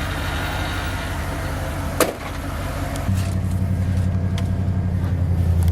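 A motor vehicle engine running steadily, with a sharp click about two seconds in; about a second later the engine note steps up and grows louder.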